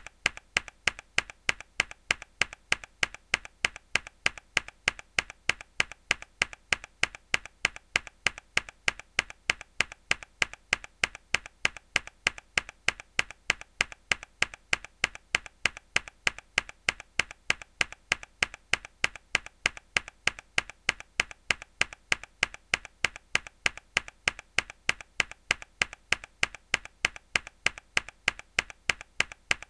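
Mechanical keyboard key pressed hard over and over, a sharp plastic click repeating evenly about three times a second, each strike followed by a quieter click.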